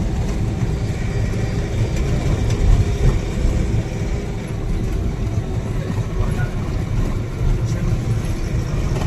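A motor vehicle's engine running steadily, with a continuous low rumble.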